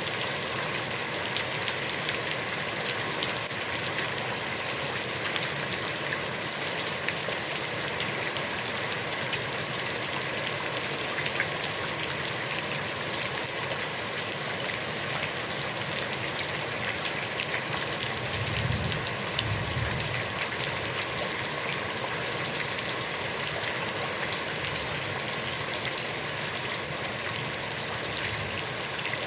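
Heavy rain falling steadily on a pond, a dense even hiss with many drops ticking through it. A brief low rumble sounds about two-thirds of the way through.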